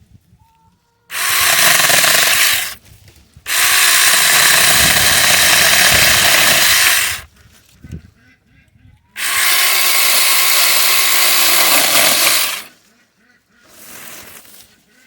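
Battery-powered 6-inch mini chainsaw running in three bursts of a few seconds each, its chain cutting through bush branches.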